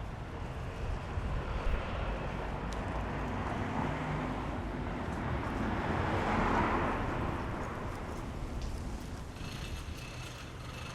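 A vehicle passing: a rushing noise that builds, peaks a little past the middle and fades away. Wind buffeting the microphone makes a steady low rumble underneath.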